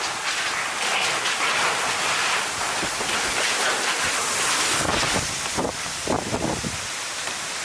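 Hurricane wind and heavy rain: a loud, steady hiss, with gusts buffeting the microphone in the last few seconds.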